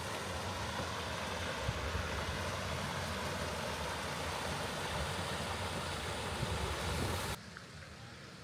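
Waterfall rushing steadily, an even wash of falling water; a little over seven seconds in it cuts off abruptly to a much quieter background.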